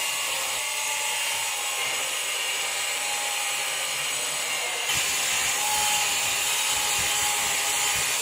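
Electric grinder running steadily against the steel, a dense hiss with a faint motor tone beneath; about five seconds in the pitch and load shift slightly as the contact changes.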